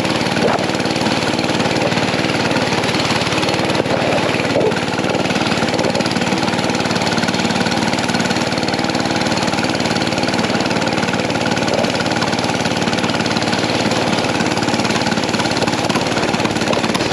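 Mini bike's small gas engine running hard and steady at one pitch, held at full throttle.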